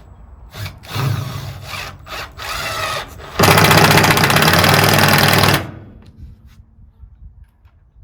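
Power drill driving a screw into plywood: a few short runs, then a steady run of about two seconds that stops abruptly.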